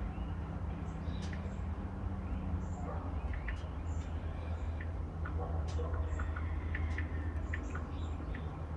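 Small birds chirping now and then, short high calls scattered over a steady low hum.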